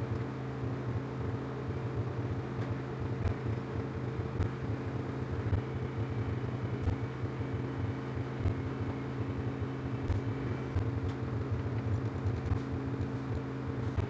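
A machine running steadily with a constant low hum and a few faint ticks.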